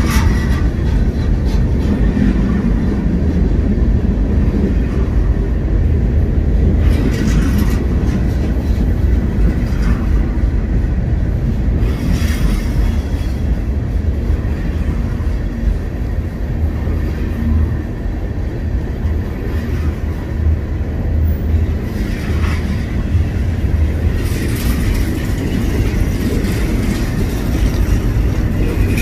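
Freight cars of a long manifest train rolling past: a steady low rumble of steel wheels on rail with clickety-clack over the joints. Brief sharper noises come every few seconds.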